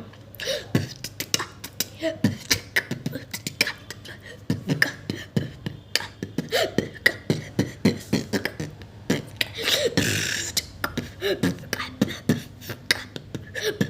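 One person beatboxing: a dense run of mouth-made drum sounds, sharp pops and clicks in quick succession, with a sustained hissing sound lasting about a second, starting around nine seconds in.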